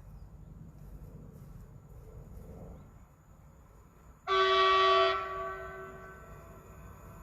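Train horn sounding one short blast about four seconds in, then fading away over about a second.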